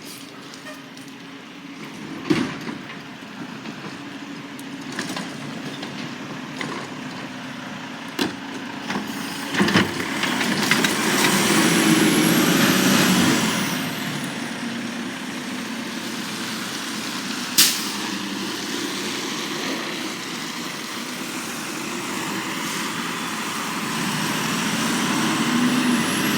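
Garbage truck working: its engine running, with a rise in noise about ten seconds in, several sharp bangs, and high squeals.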